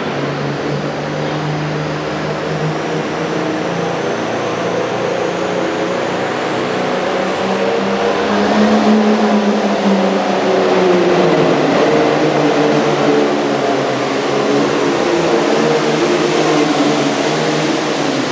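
Super Farm class pulling tractor's turbocharged diesel engine running hard under load, its pitch rising and the sound getting louder about eight seconds in.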